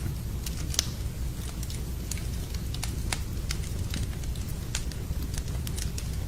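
Campfire of burning wood crackling, with irregular sharp pops, the loudest just under a second in, over a steady low rumble.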